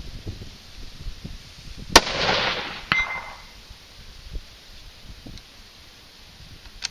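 A single shot from a 6.5 Creedmoor Ruger American Predator rifle with a muzzle brake, about two seconds in; the blast echoes away over about a second and a half. A short, sharp ringing tick comes about a second after the shot. Wind buffets the microphone throughout.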